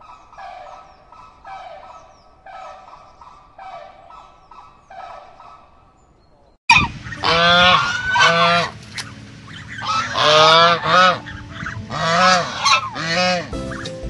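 Flamingo calls repeating about once a second, fairly quiet. About seven seconds in, they give way suddenly to loud honking calls of swans or geese, many overlapping, each rising and falling in pitch.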